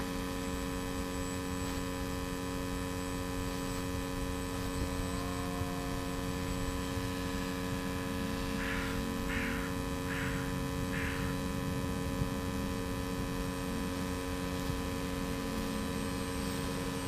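Electric motor and 7x5 pusher propeller of a radio-controlled model airliner running at a steady throttle in flight: an even, multi-toned hum. Four short chirps come a little past halfway.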